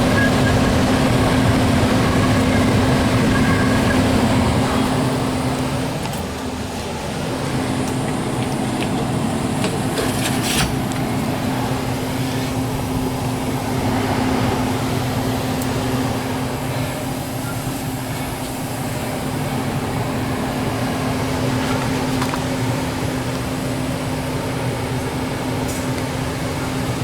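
Air conditioner running with a steady hum and a steady tone, dipping briefly about six seconds in; a sharp click about ten seconds in.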